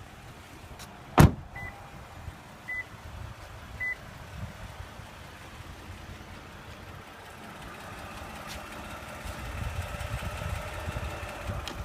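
2015 Toyota Highlander's 3.5-litre V6 idling, with a sharp click about a second in as the hood release is pulled, followed by three short beeps about a second apart. The idle grows louder and clearer over the last few seconds as the hood is opened.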